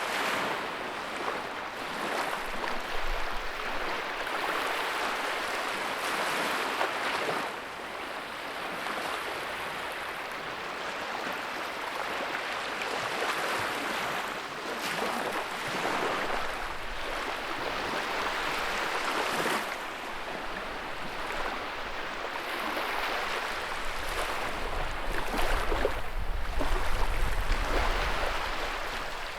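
Wood fire crackling: a steady rushing hiss of flames strewn with many small pops and snaps, swelling and easing every few seconds and growing louder near the end.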